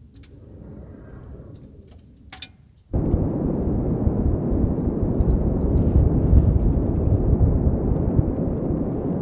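A few light clicks in near quiet, then about three seconds in a strong blizzard wind suddenly starts buffeting the microphone, a loud, deep, unpitched rumble that keeps on.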